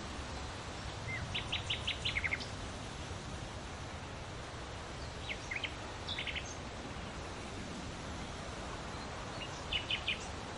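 A bird chirping in three short bursts of quick, high notes, about a second, five seconds and ten seconds in, over a steady outdoor background hiss.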